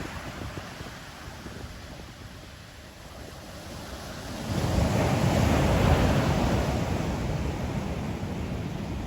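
Ocean waves breaking on the shore: a lull, then a wave surges in about four and a half seconds in and slowly washes back, with wind buffeting the microphone throughout.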